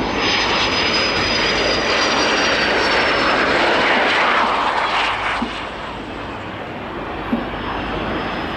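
Jet aircraft engine noise as a jet makes a pass, with a thin high turbine whine over it. The noise is loudest for the first five seconds, then falls away sharply about five and a half seconds in.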